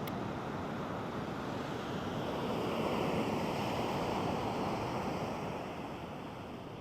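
Pacific surf: a wave breaking and washing in, swelling to its loudest in the middle and easing off near the end.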